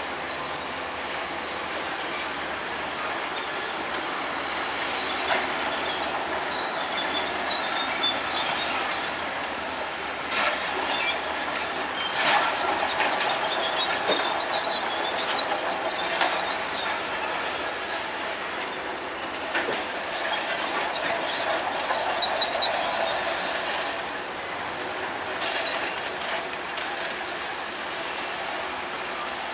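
Bulldozer's steel crawler tracks clanking and squealing as it works, the noise swelling and easing several times.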